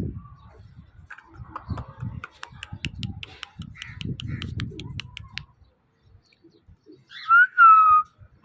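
Parrots calling: two loud whistled calls falling in pitch about seven seconds in, after quieter chatter with a quick run of high clicks.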